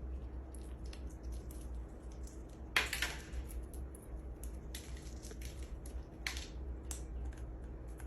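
A parrot cracking and nibbling a pistachio shell with its beak: irregular small cracks and clicks, the loudest crack about three seconds in, over a low steady hum.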